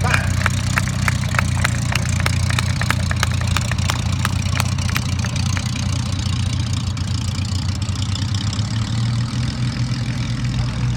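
Aircraft piston engine running steadily with a deep drone, with a rapid series of sharp clicks over its first few seconds.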